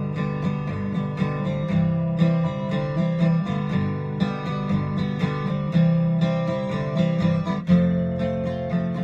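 Acoustic guitar strumming chords in a steady rhythm, an instrumental passage of the song with no singing.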